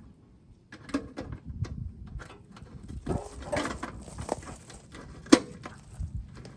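Scattered clicks and knocks of hands working on a small engine, with one sharper click about five seconds in; the engine is not running.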